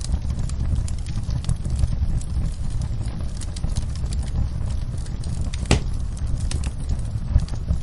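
Wood fire in a fireplace crackling, with frequent small irregular pops over a steady low rumble and one louder pop near the end.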